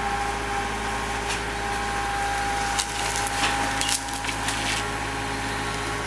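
Engine of a demolition crane-type machine running steadily, with a cluster of sharp knocks and cracks of house debris being grabbed and loaded into a dump truck about three to five seconds in.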